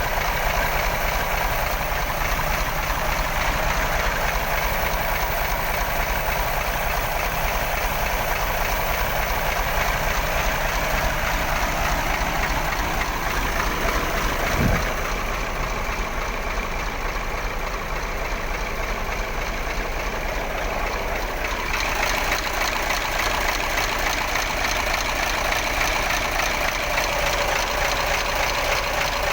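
Daewoo DV15 twin-turbo V8 diesel engine running steadily at idle, with one brief low thump about halfway through. The owner reports the engine as low on power.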